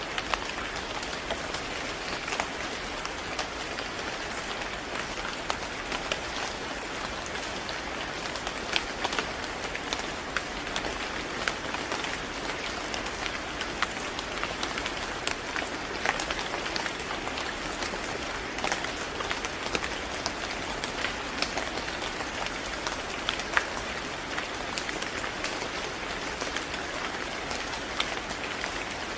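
Steady rain falling on a hard surface, a constant hiss with many scattered individual drop ticks.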